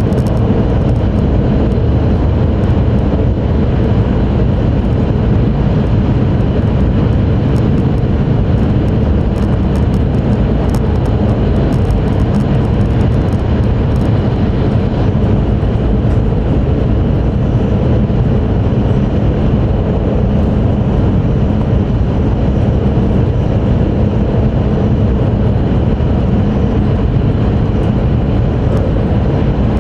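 Steady low rumble and rushing noise inside the passenger cabin of an E5 series Shinkansen running on the line, with no change in pace. A scatter of faint light clicks rides over it for several seconds a third of the way in.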